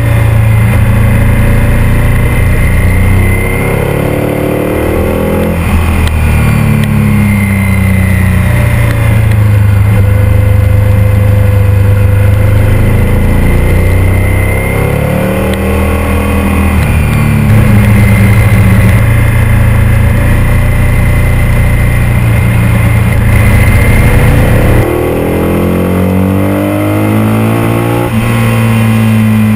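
Ducati 851's 90-degree V-twin engine running hard under way, its pitch repeatedly climbing as it revs and then dropping back with each gear change.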